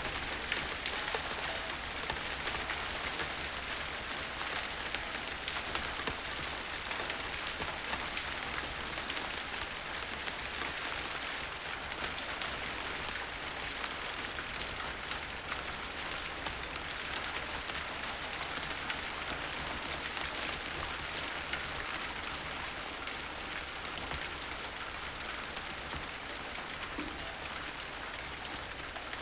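Steady rain falling, with many separate drops ticking sharply on a surface throughout; no thunder in this stretch.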